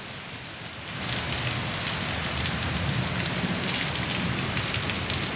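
Heavy rain pouring down in a violent storm, picking up about a second in and then holding steady, with a low rumble underneath.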